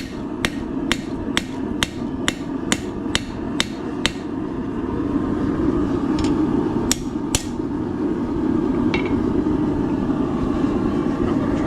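Hammer striking hot steel on an anvil: an even run of blows about two a second for the first four seconds, then a few scattered blows, over a steady low hum.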